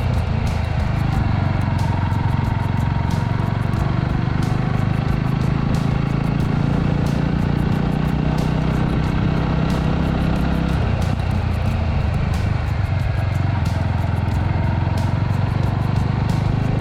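Suzuki Grass Tracker's single-cylinder engine running steadily while riding, with wind and road noise; the engine note changes about eleven seconds in.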